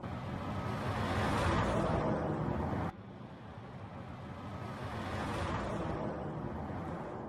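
Heavy trucks driving on the road: steady engine and tyre noise that drops off abruptly about three seconds in, then swells a little and fades near the end.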